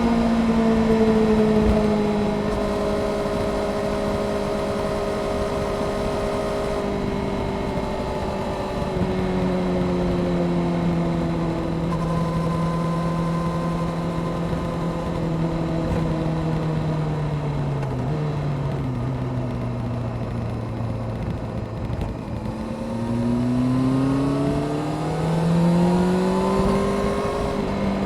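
Honda CBR600F Sport inline-four engine with a Delkevic aftermarket exhaust, heard from the bike over rushing wind. The engine note falls slowly for most of the stretch as the bike eases off and slows. Near the end it climbs quickly as the rider accelerates.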